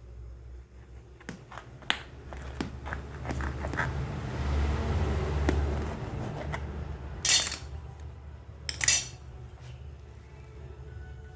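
Cutlery and dishes being handled: scattered clinks and knocks, a stretch of scraping in the middle, and two louder brief scrapes a second and a half apart.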